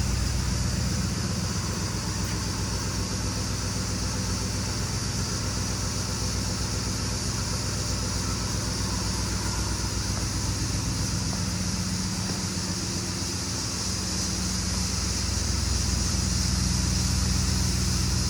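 2010 Ford F-150's 4.6-litre V8 engine idling steadily.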